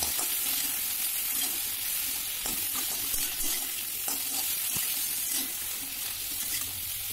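Raw mango slices frying in mustard oil in a kadhai, sizzling steadily while a spatula stirs them, with scattered scrapes and taps against the pan.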